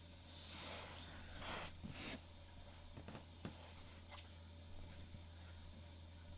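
Faint rustling and a few light clicks of handling, over a steady low hum.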